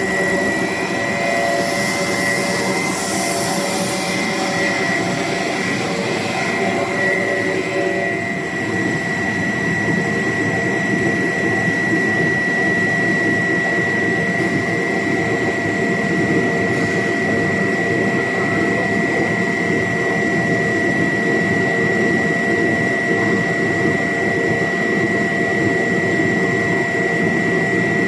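Pet food extrusion line machinery running: a steady mechanical din with a constant high-pitched whine and lower hums, and an added hiss during the first several seconds.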